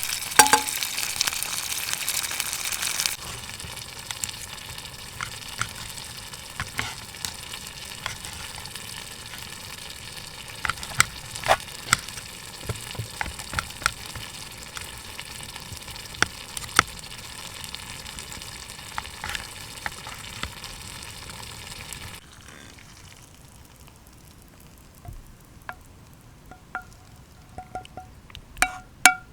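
Food sizzling in a frying pan over a campfire, a steady hiss with scattered sharp pops. The sizzle drops in level twice, and a few light metallic clinks come near the end.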